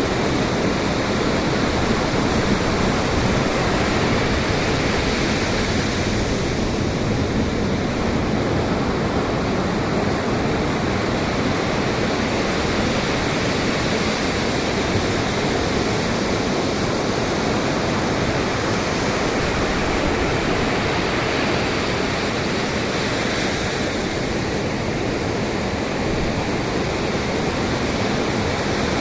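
Ocean surf and wind: a continuous, dense rush of breaking waves that eases slightly twice, once about a quarter of the way in and again near the end.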